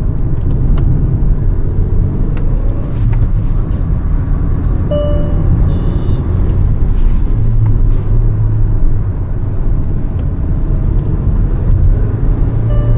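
Hyundai Verna's 1.5 turbo-petrol four-cylinder engine and road rumble while driving, the engine drone swelling and easing with the throttle, with a few light clicks. A short beep sounds about five seconds in.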